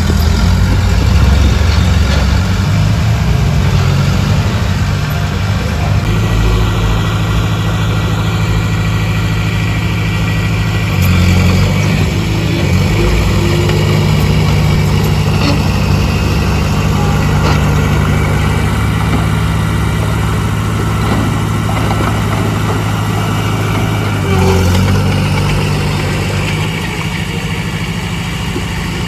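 Diesel engine of heavy earthmoving machinery running steadily, its low note shifting as the engine load and speed change a few times, about six, eleven and twenty-five seconds in.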